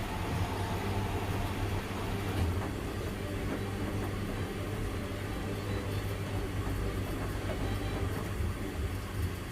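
Front-loading washing machines running a delicates cycle: a steady low rumble with a faint mid-pitched hum and no breaks.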